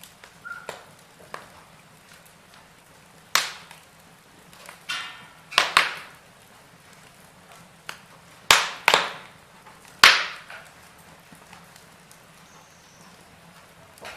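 Wood fire in a fireplace crackling, with about half a dozen sharp pops and snaps a second or two apart over a faint steady hiss, the loudest about two thirds of the way through.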